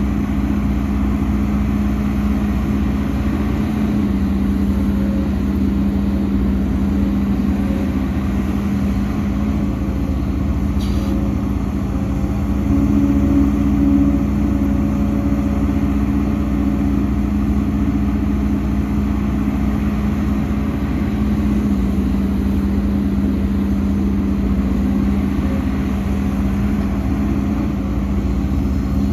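Heavy diesel engine of earthmoving machinery running steadily under light load. Its pitch shifts slightly a few times, and it gets a little louder for a couple of seconds midway.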